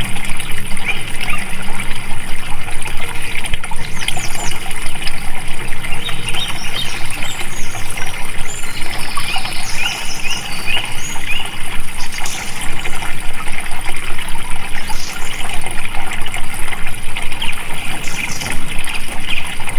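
Stream water flowing and trickling steadily, with short high bird chirps scattered over it.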